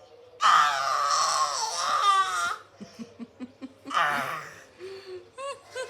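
A baby's loud, high-pitched squeal held for about two seconds, a vocal imitation given when asked how an elephant sounds. It is followed by a quick run of short giggles, a second brief squeal about four seconds in, and little rising squeaks near the end.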